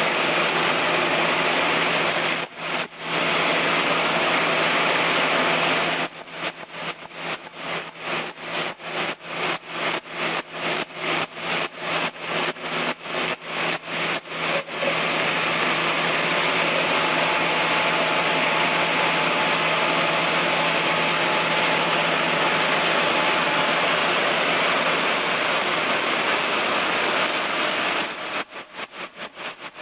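Chainsaw engine running steadily at high speed. For several seconds in the middle, and again near the end, the sound breaks up in rapid, regular dips, about three or four a second.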